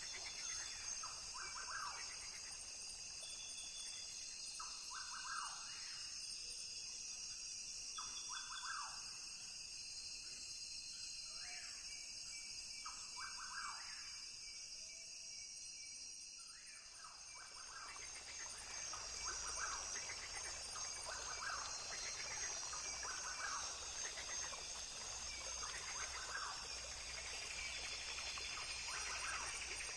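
Rainforest ambience: a steady high-pitched chorus with short bird calls repeating every second or two. The calls thin out for a few seconds past the middle, then the sound fills in again with a fuller hiss.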